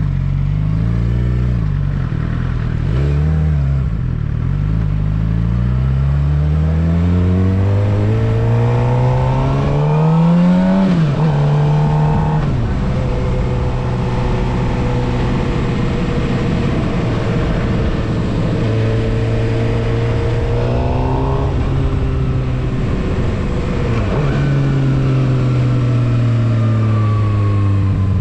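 Suzuki GSX-R750 inline-four engine pulling through the revs on the road. The revs climb steadily and drop sharply at a gear change about eleven seconds in, then hold at a steady cruise. They climb and drop again about two-thirds of the way through, then ease off slowly near the end.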